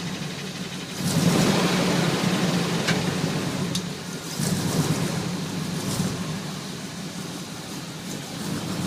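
Chevy Suburban's 305 small-block V8, bored .030 over, running after a cold start with a steady low hum. It swells louder about a second in and again about four and a half seconds in, with a couple of faint clicks.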